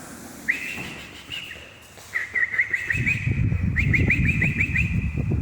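A small bird chirping: a high call about half a second in, then two quick runs of repeated chirps, about six a second, around two and four seconds in. From about three seconds in a loud low rumbling noise runs beneath the chirps.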